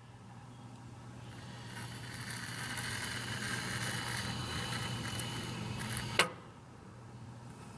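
Small electric motor running with a steady hum that builds gradually, a sharp click about six seconds in as it drops away, then building again near the end.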